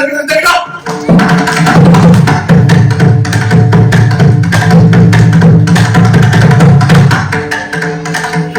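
Indian hand percussion playing a fast, dense run of drum strokes with a strong deep bass, starting in earnest about a second in after the spoken rhythm syllables.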